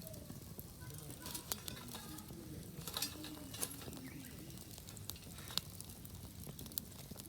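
Food sizzling as it cooks, with scattered sharp pops and crackles throughout.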